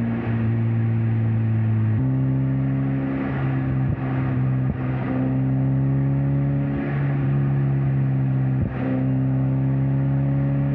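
Mazda Miata NC's 2.0-litre four-cylinder engine and exhaust cruising at steady speed under tyre and road noise. The engine note steps to a new steady pitch about two seconds in, then holds, with a few brief dips in level.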